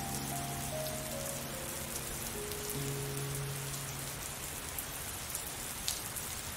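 Steady rain falling on surfaces, an even hiss. A soft, slow melody of single notes descends over it and stops about four seconds in.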